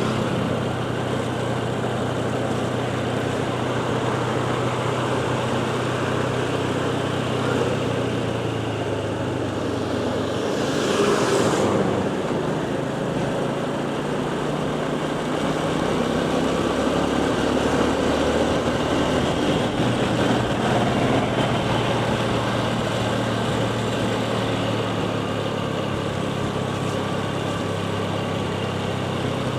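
Motorcycle engine running steadily on the move, under constant wind and road rush. About ten seconds in, a louder rushing sweep rises and falls over a second or two.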